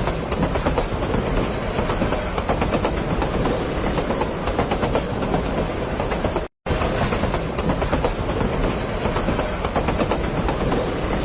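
Enoshima Electric Railway (Enoden) train running, its wheels clacking over the rail joints. The sound cuts out for a moment about six and a half seconds in, then goes on.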